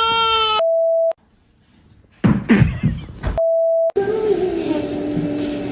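A long wailing cry is cut off by a steady electronic beep about half a second in. After a short pause and a brief noisy burst, a second identical beep sounds, and then another long, level wailing cry begins.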